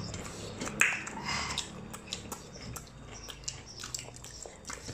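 Close-up chewing, biting and wet lip smacks of people eating dhido and sukuti with their hands, heard as many small scattered clicks, with one brighter mouth sound about a second in.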